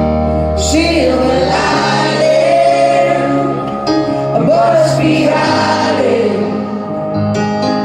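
Live folk band music with several voices singing together in long held notes that slide in pitch, over sustained low instrumental notes.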